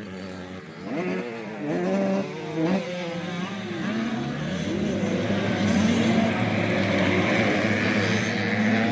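Several 85cc two-stroke motocross bikes revving hard on the track, their engine notes rising and falling over one another and growing louder after a few seconds.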